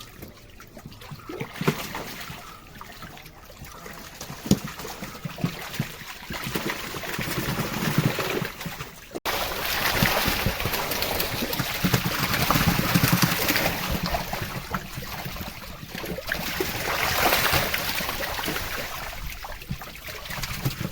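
Water trickling and splashing while a home fish tank's water is changed during cleaning. The sound breaks off suddenly about nine seconds in and returns louder and fuller.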